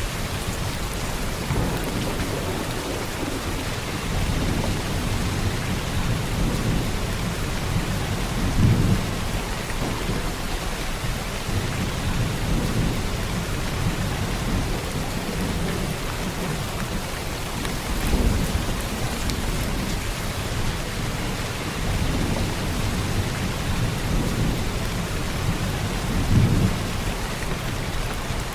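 Heavy rain falling steadily, with low rolls of thunder swelling and fading every few seconds, the strongest about a third of the way in, near the middle and near the end.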